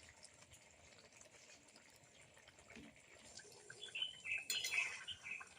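Faint bubbling and ticking of a fish curry simmering in the pot. From about halfway through, small birds chirp in quick bursts, loudest near the end.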